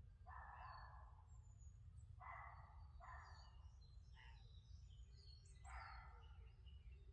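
Faint birdsong: high, short chirps and whistles, with about five louder, rougher calls of half a second each, over a low steady rumble.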